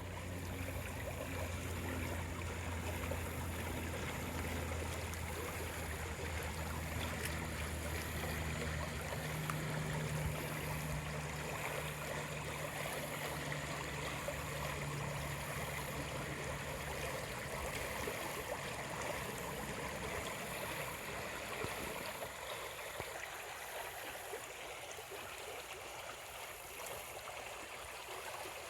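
A steady rushing noise, with a low motor hum underneath that fades out about two-thirds of the way through.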